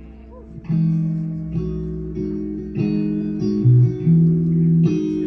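Guitar strumming chords in a steady rhythm, starting about a second in, as the instrumental opening of a live song.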